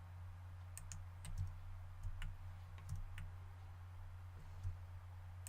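Scattered clicks of computer mouse buttons, about eight over several seconds, as parts of a 3D model are selected, over a steady low hum.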